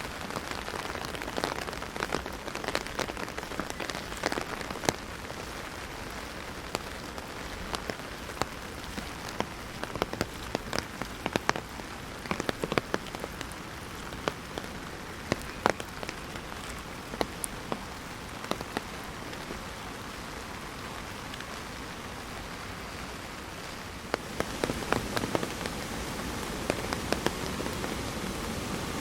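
Heavy rain drumming on an umbrella overhead, a steady patter with many sharp individual drop hits. From about 24 seconds in, a steadier rushing noise grows louder underneath.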